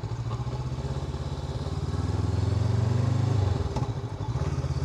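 Honda NX500's parallel-twin engine running while riding. The engine note rises slightly and grows louder for a couple of seconds, then drops off suddenly about three and a half seconds in as the throttle closes, and settles back to a steady run.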